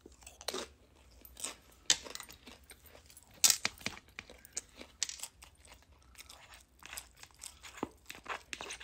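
Close-miked chewing of a mouthful of rice, black beans and corn, with wet mouth clicks and scattered crunches; the sharpest crunch comes about three and a half seconds in.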